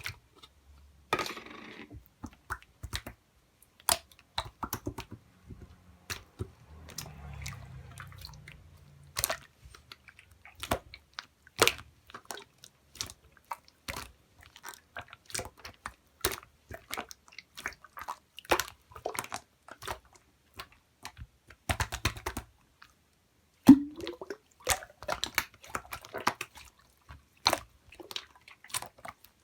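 Pearl marbling slime being pressed and stretched by hand, making many irregular sticky clicks and pops.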